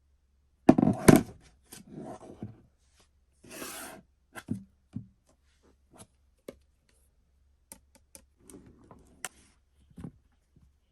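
Objects being handled up close: rustling and scraping, with scattered light clicks and knocks. The loudest rustling comes about a second in.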